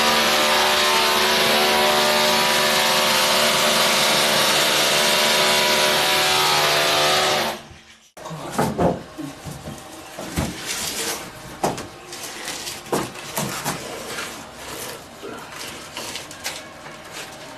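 An electric power tool's motor runs steadily at constant speed, then cuts off abruptly about seven seconds in. After it come scattered knocks and clicks of tools and hardware being handled.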